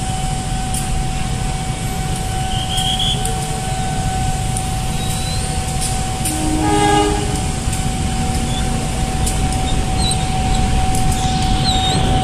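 A level-crossing warning signal holds one steady tone while a passenger train and road traffic rumble low underneath. About seven seconds in, a train horn gives one short blast.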